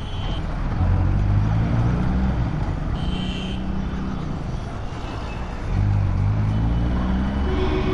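Motorcycle engine running under way, picking up revs about a second in and again near six seconds, with wind and road noise over the mic. Short high-pitched beeps from traffic, at the start and about three seconds in.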